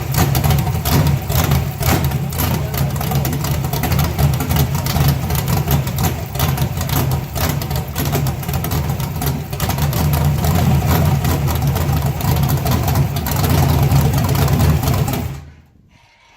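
Car engine idling on its first start with a new setup after five years, running steadily with a rough, pulsing exhaust note. Near the end it cuts off suddenly.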